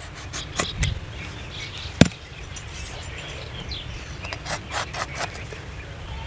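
Knife shaving and scraping the wood of a date palm trunk in short, irregular strokes, with one sharp knock about two seconds in; birds chirp faintly.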